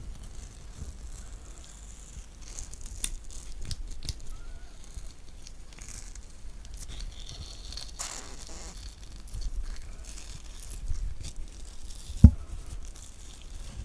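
Close-miked spoon scooping out kiwi flesh: soft wet scraping and squelching with scattered small taps, and a single sharp knock about twelve seconds in.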